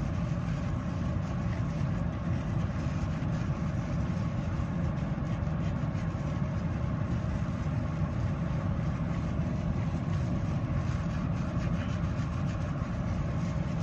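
Steady low rumble and hum of a vehicle, heard from inside a car.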